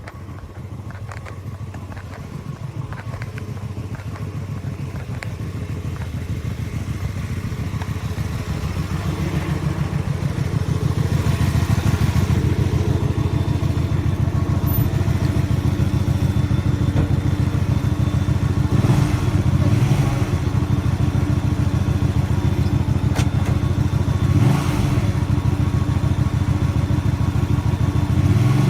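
Motorcycle engine running at low, even revs. It grows steadily louder over the first ten seconds or so as the bike comes closer, then holds, with a few brief throttle blips.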